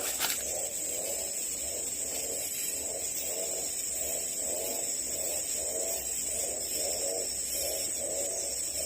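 Rainforest ambience: a steady high insect drone, with a low animal call repeated evenly about twice a second. Two sharp clicks come near the start.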